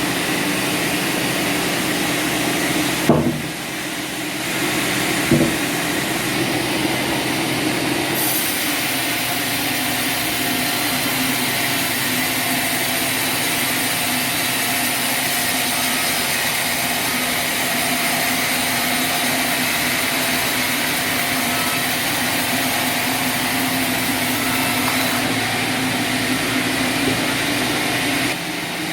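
Sawmill machinery running steadily with a constant hum and hiss, and two sharp knocks about three and five seconds in.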